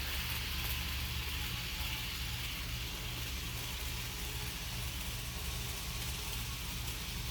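HO scale model freight train running around the track: a steady low running sound with an even, repeating pulse, over a constant hiss.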